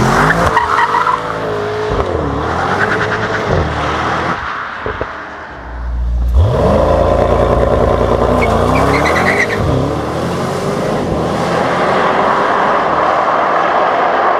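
Twin-turbo V8 of a Mercedes-AMG GT 63 S 4-Door under hard acceleration, its pitch climbing and then dropping sharply at each upshift. The run breaks off about four seconds in, goes quieter, and picks up again about six seconds in with a fast rise in revs, followed by more upshifts.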